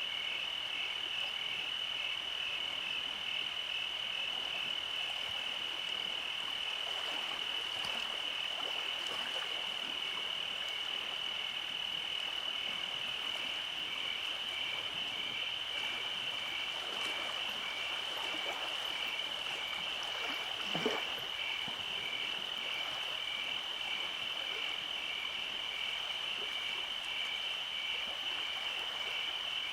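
Summer night chorus of frogs and insects: a steady high trill runs throughout, with a second call pulsing rhythmically just beneath it. There is a single soft knock about two-thirds of the way through.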